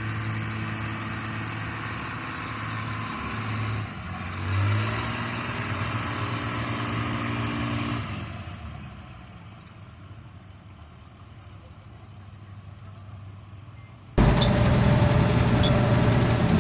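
Heavy engines running, with a shift in pitch about four seconds in and a fade to a quieter rumble after about eight seconds; a louder, deeper engine sound cuts in suddenly near the end.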